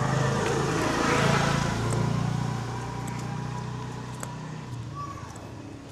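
A motor vehicle driving past on the street, its engine and road noise swelling to a peak about a second in and then fading away.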